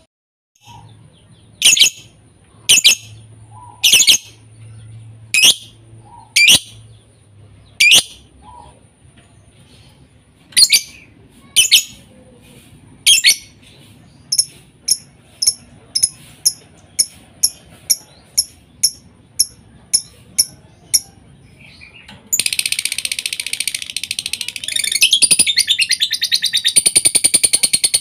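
Lovebird calling: loud, sharp single chirps about a second apart, then a quicker run of shorter chirps about two a second, then, from about three quarters of the way in, a continuous rapid high-pitched chatter. A bait-sound track played to provoke a lovebird into singing.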